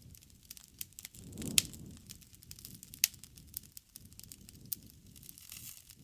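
Wood campfire crackling, with a scatter of sharp pops, the loudest about a second and a half in and again about three seconds in, over a low rumble of the flames that swells near the start.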